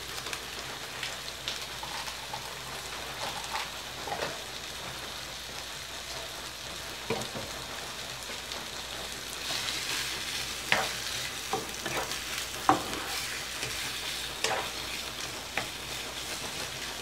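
Chicken livers and gizzards sizzling steadily in oil in a wok. A wooden spatula stirs them and knocks against the pan several times, mostly in the second half.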